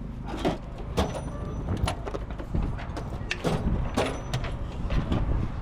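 Irregular clicks and knocks of hand work on a stock car, about six in all, over a steady low wind rumble on the microphone.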